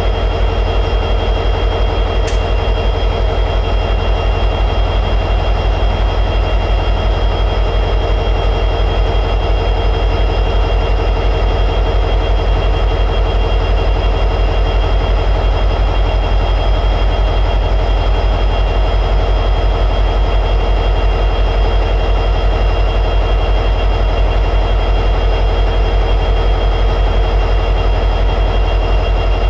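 EMD 16-710G3B two-stroke diesel prime mover of an SD60E locomotive running steadily at high idle: a deep, even throb with faint steady high-pitched tones above it.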